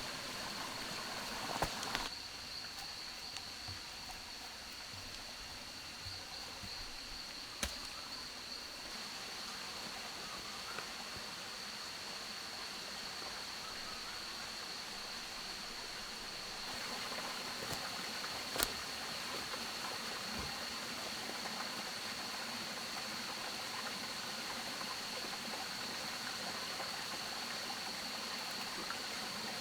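Jungle ambience: a steady, high-pitched insect drone over the hiss of running water, broken by a few sharp knocks or snaps, the loudest about two-thirds of the way through.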